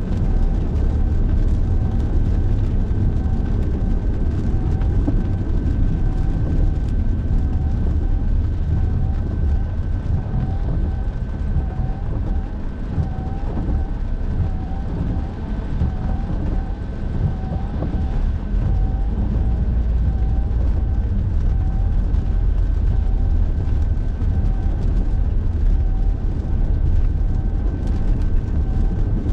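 Steady road and engine noise heard from inside a car driving through heavy rain. A faint steady tone sits above it, and a short chirp repeats about once every 0.7 seconds throughout.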